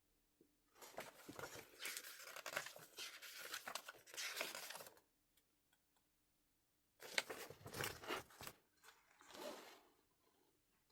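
Album packaging being torn open and crinkled by hand: a long stretch of tearing and rustling, a pause of about two seconds, then two shorter bursts.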